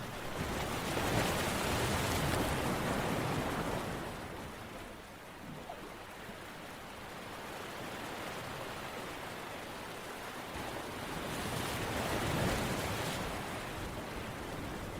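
Ocean waves washing in: a steady rushing that swells twice, about a second in and again near the end.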